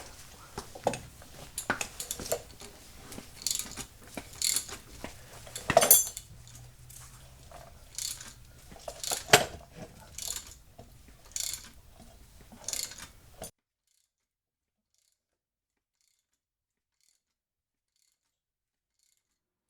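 Scattered metallic clicks and clanks of tools and a coil spring compressor being loosened and worked off a freshly removed coil spring. They stop dead about 13 seconds in, followed by total silence.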